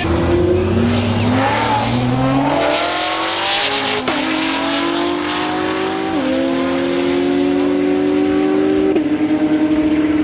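A race car accelerating hard through the gears. The engine note climbs steadily and drops at each upshift, three shifts about two to three seconds apart, with a sharp crack at the first.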